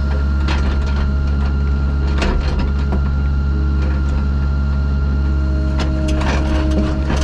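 A heavy construction machine's engine running steadily at a constant speed, with several short clanks and scrapes of metal and dirt over it.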